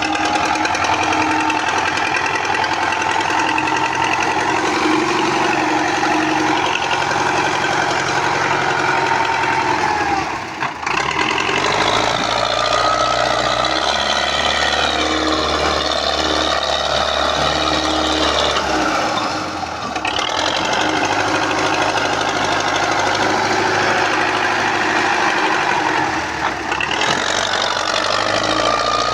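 MTZ tractor's four-cylinder diesel engine running hard under load while pulling a loaded trolley through mud. The engine note shifts briefly about ten, twenty and twenty-seven seconds in.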